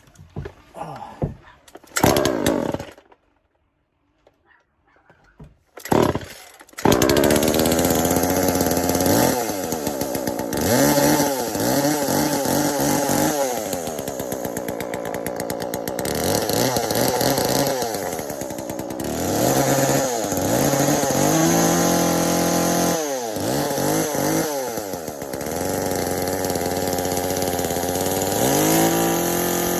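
Poulan Pro 42cc two-stroke chainsaw, with its muffler ports opened up, being cold-started after sitting unused. There are a couple of short pull-cord bursts, then it catches about seven seconds in and runs. It is revved up and down over and over, with the pitch rising and falling.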